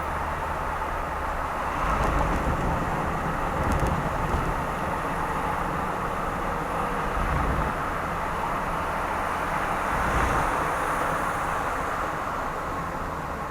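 Car driving along an expressway: steady road and tyre noise with a low rumble that swells a few times.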